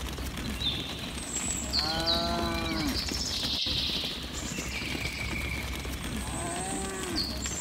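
Cattle mooing: two moos, one about two seconds in and a shorter one near the end, each rising and then falling in pitch.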